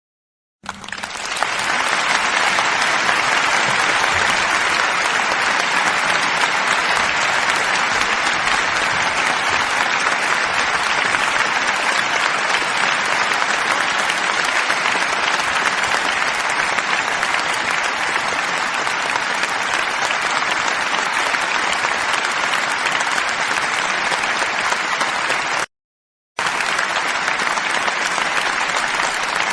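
Crowd applauding steadily, fading in just under a second in. It cuts out for about half a second near the end and then starts again.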